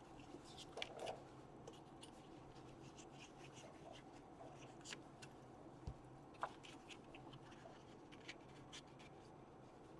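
Faint handling of paper and card: small rustles, scratches and light taps as pieces are lined up and pressed down, over a low steady room hum.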